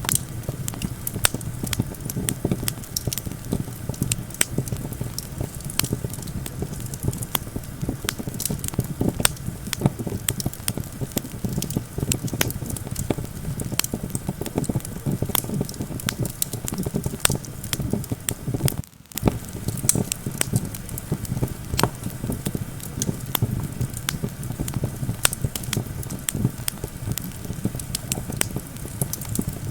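Wood campfire crackling, with frequent sharp pops and snaps over a steady low rush of wind. The sound dips briefly about two-thirds of the way through.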